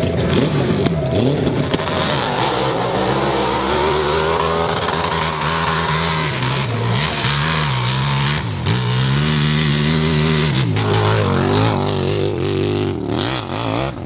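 Hill-climb motorcycle engine revving hard, its pitch rising and falling again and again as the throttle is worked, then fading away near the end.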